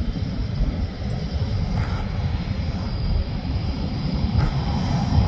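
Jet airliner's engines running at taxi power: a steady low rumble with a high, even whine that grows a little stronger about three seconds in.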